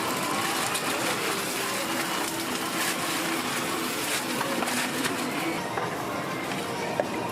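Steady background noise of a busy street-food stall, with faint voices and a few light clicks.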